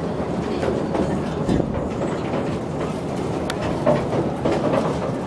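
Tourist train running over a steel truss railway bridge, heard from aboard an open-sided carriage: a steady rumble of the wheels on the rails with irregular clacks.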